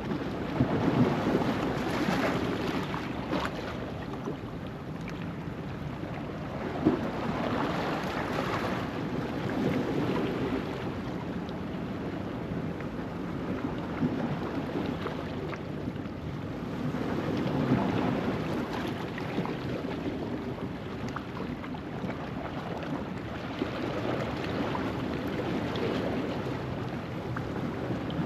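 Ocean waves washing over a rocky shoreline at low tide, a steady rushing that swells and fades about every eight seconds, with an occasional sharp splash.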